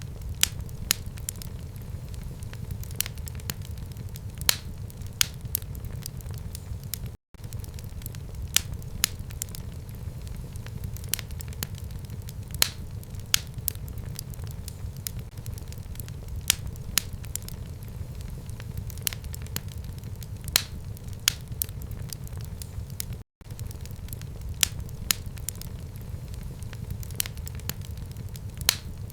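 Fire burning in a home fireplace: frequent sharp pops and crackles, irregularly spaced, over a steady low rumble of the flames. The sound drops out for an instant twice.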